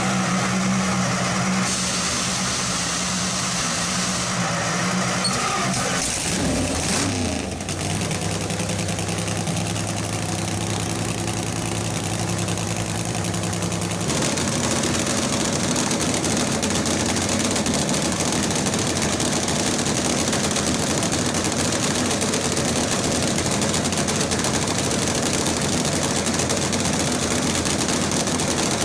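Nitro drag-racing engine running at a steady idle, first on methanol. About halfway through the sound turns louder and rougher, typical of the switch over to nitromethane. The crowd calls the sound rough on the eardrums.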